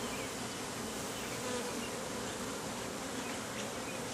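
Honeybees buzzing around an open hive: a steady hum of many bees.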